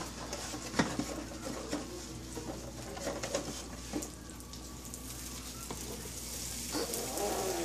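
Beaten egg sizzling on a hot electric griddle, with a few light clicks as metal tongs touch the griddle and lift the edge of the omelette.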